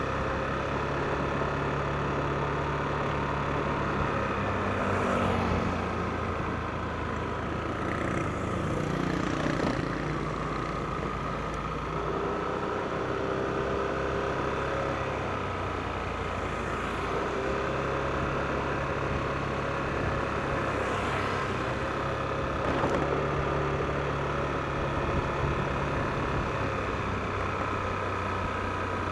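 Yamaha NMAX scooter's single-cylinder engine running under way, its note rising and falling with the throttle over steady road noise.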